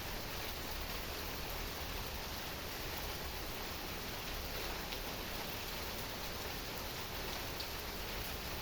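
Heavy rain falling steadily: an even, unbroken hiss with a few faint drop ticks.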